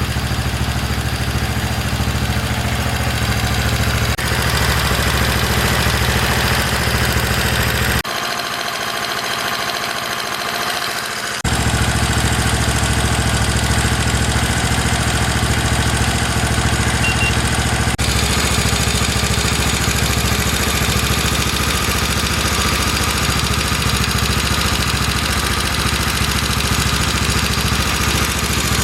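Chinese-made 125cc single-cylinder four-stroke motorcycle engine running steadily on a bench stand, being run in after a rebuild. About eight seconds in, its deep low note drops away for about three seconds, then returns.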